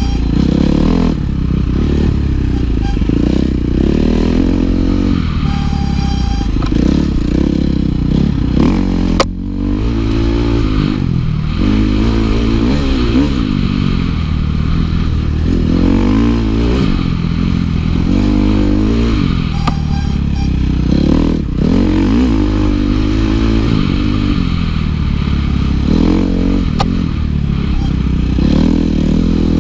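KTM 350 XC-F four-stroke dirt bike engine under hard riding, revving up and dropping back again and again as the throttle is worked and gears change. A sharp knock comes about nine seconds in.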